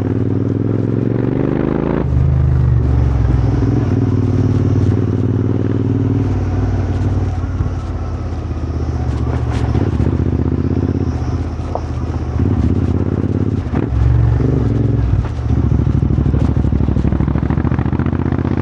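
Royal Enfield GT 650 parallel-twin engine running through an aftermarket Powerrage exhaust while riding. Engine speed climbs during the first two seconds, falls abruptly about two seconds in, then rises and eases off several more times, with a few sharp clicks along the way.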